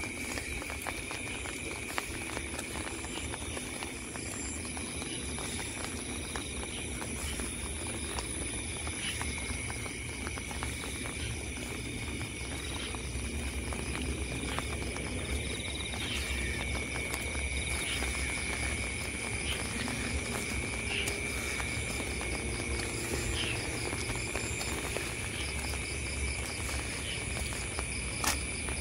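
Night insects, crickets, trilling steadily in a high continuous tone, over the patter of rain with many scattered drip-like clicks and footsteps on wet ground.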